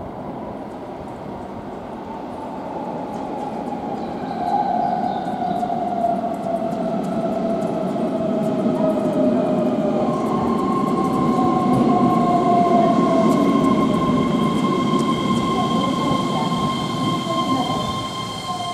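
Keihan 13000 series electric train arriving at a station platform and braking to a stop. Its motor note falls in pitch as it slows, and about halfway through a steady high-pitched squeal joins the rumble of the wheels. The sound fades as the train halts.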